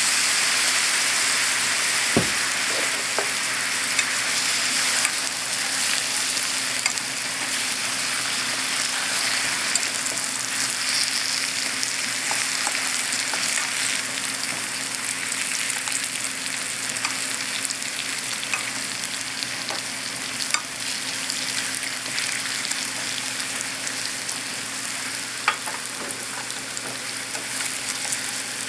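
Pieces of roasted sweet potato sizzling in a frying pan as they cook into daigaku-imo, a steady hiss that eases slowly, with a few sharp clicks of a utensil against the pan.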